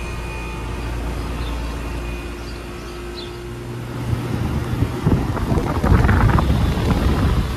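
Outdoor heat pump unit running, a steady hum with a faint whine over it. From about four seconds in, gusty wind on the microphone rises over it and becomes the loudest sound.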